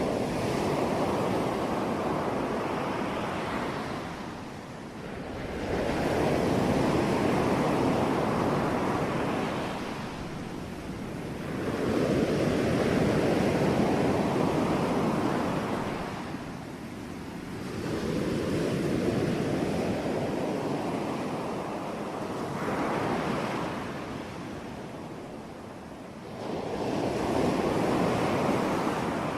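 Sea waves breaking on a shore, with each one's wash swelling and ebbing about every five to six seconds.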